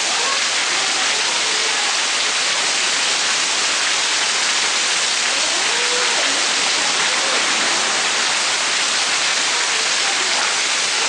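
Heavy monsoon rain falling steadily: a dense, even hiss of rain on surfaces.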